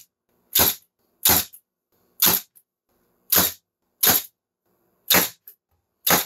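Cordless 18-gauge narrow-crown stapler firing 1-1/4 inch staples into wood, seven sharp shots about a second apart at an uneven pace.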